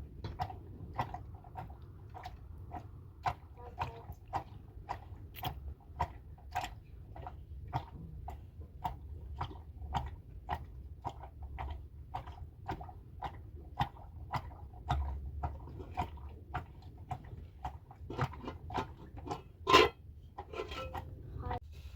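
Steady rhythmic knocking, about two strikes a second, with one louder knock near the end, over a low hum.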